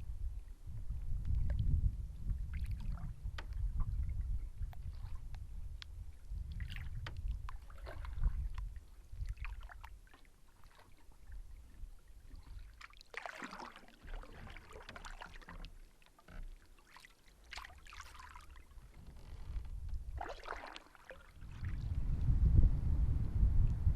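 Canoe paddle strokes through the water, each one a short splash and swirl, with wind rumbling on the microphone at the start and again near the end.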